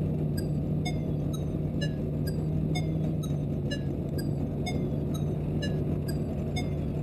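Jeep CJ-7 engine running steadily, with a light ticking about twice a second.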